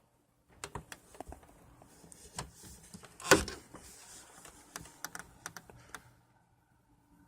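Quick irregular clicks and rustling from movement close to the microphone, with one louder knock about three seconds in.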